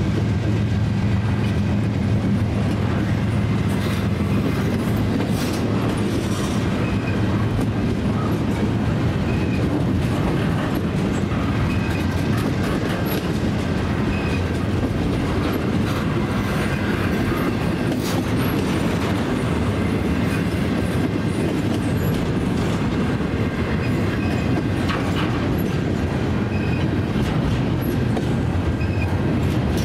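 Double-stack intermodal container train's well cars rolling past steadily, the wheels clicking rhythmically over the rail joints with the rumble of steel wheels on rail.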